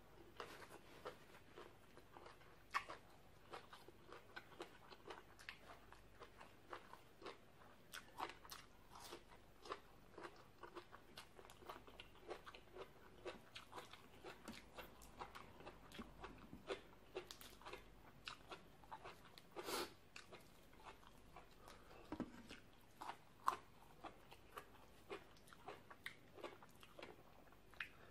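Close-miked chewing of crunchy raw green papaya salad: a faint, irregular run of small crunches and wet mouth clicks, with a few sharper crunches standing out.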